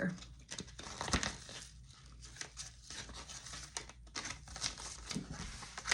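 Paper banknotes and cash envelopes rustling and crinkling as they are handled, with irregular soft taps and clicks.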